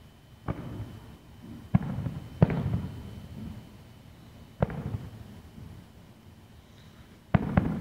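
Fireworks going off: about six sharp bangs, each followed by a rolling rumble, with two pairs coming close together.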